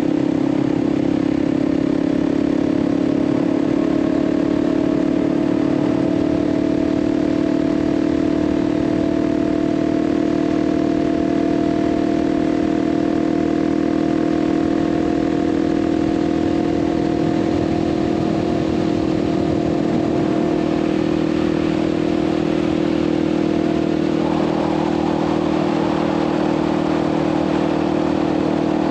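Kawasaki KLX300's single-cylinder four-stroke engine running at a steady cruising speed, with road and wind rush. The rushing noise grows louder for the last few seconds.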